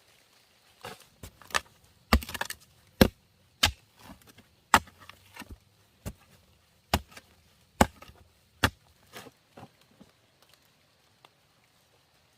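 A blade chopping into wood, a string of sharp strikes about one a second that stop about ten seconds in.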